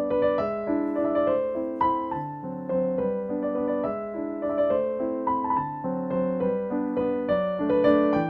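Soft background piano music: a gentle melody of single notes over held chords.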